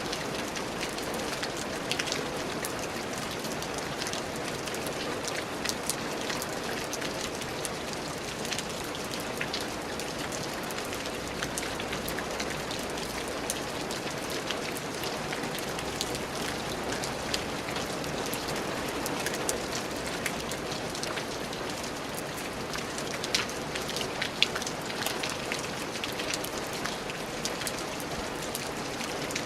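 Steady rain falling, with many individual drops ticking and spattering on a surface; a few drops hit louder now and then.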